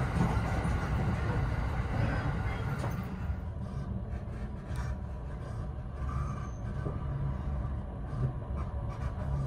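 Steady low rumble of a double-decker local train running, heard from inside the carriage. The higher hiss thins out about three seconds in.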